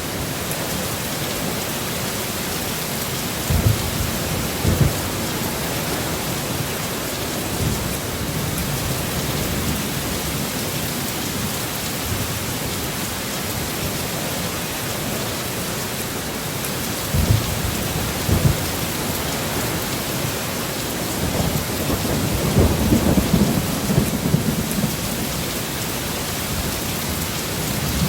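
Steady rain, with low thunder rumbling through it: two short rumbles about 3 to 5 seconds in, two more around 17 to 18 seconds, and a longer rolling rumble from about 21 to 25 seconds.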